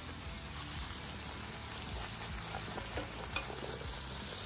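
Hot sautéed onions, bacon and peppers sizzling as they are scraped out of a skillet onto meat in an enamel roaster, with a few light clicks and scrapes around the middle.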